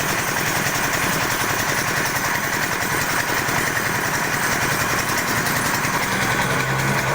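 Vertical pellet mill with a 4 mm-hole die running under test, a steady machine clatter with a fast, even rhythm; near the end a steady low hum comes up under it.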